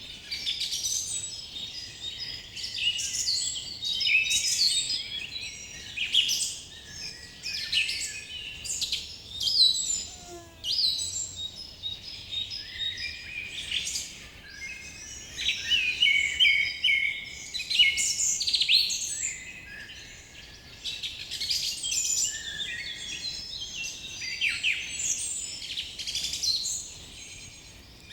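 Several birds singing and calling together in a dense chorus of chirps, trills and quick whistled glides, rising and falling in waves.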